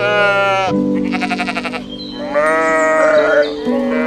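Sheep bleating three times: a short call, a quavering one, then a longer drawn-out one, over background music with held low notes.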